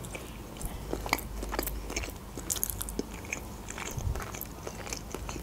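A person chewing a bite of smoked fish with her mouth closed: soft, wet mouth clicks and smacks at irregular intervals.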